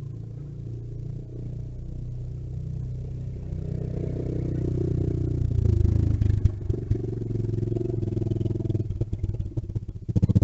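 Small single-cylinder mini bike engine running, getting louder over the first six seconds, then wavering unevenly.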